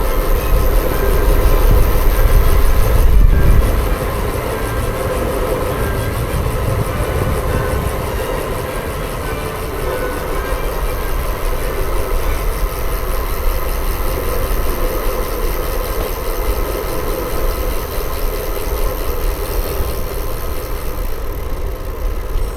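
Steady wind and road noise while riding a bicycle, with heavy low rumble from wind buffeting the microphone, strongest in the first few seconds.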